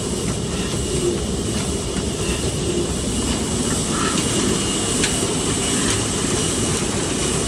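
Big old diesel engine running steadily.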